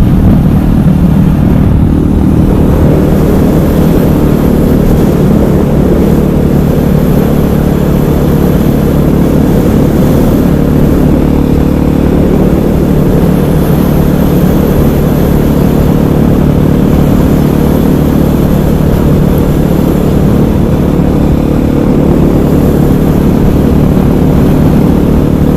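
KTM 500 EXC supermoto's single-cylinder four-stroke engine running at a steady speed while riding, with no clear revving up or down.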